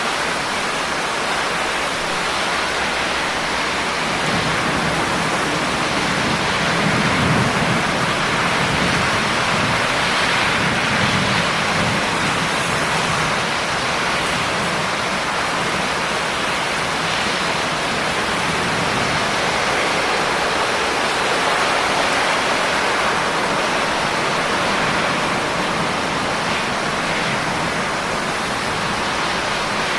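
Steady rain falling, a dense, even hiss. A low rumble swells a few seconds in and fades out before the middle.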